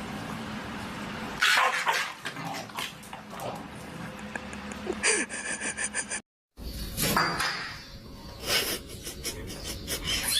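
A pet animal calling in short sharp sounds, starting loudly about a second and a half in, with a brief dead gap about six seconds in.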